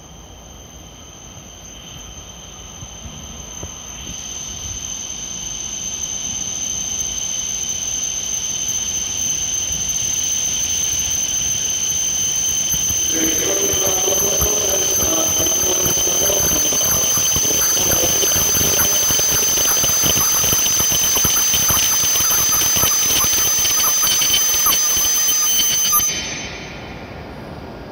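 E7 series shinkansen train pulling into the station and stopping. A steady high-pitched squeal grows louder as it approaches, and running and rattling noise joins about halfway through. The noise cuts off suddenly as the train comes to a halt near the end.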